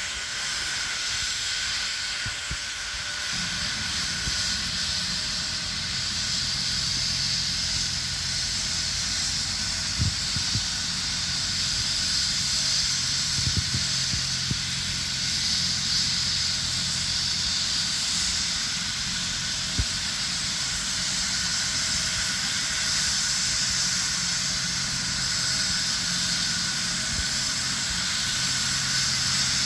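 Helicopter turbine engines running: a steady hiss with a thin high whine, and a lower hum joining about three seconds in.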